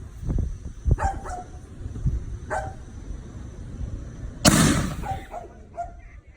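A dog barks in short calls about once a second. About two-thirds of the way through, a 6-inch canister firework shell breaks overhead with one loud boom.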